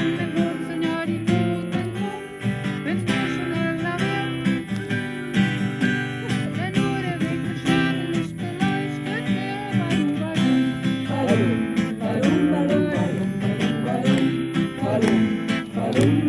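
Strummed acoustic string instrument playing chords, with voices singing along that grow stronger about eleven seconds in.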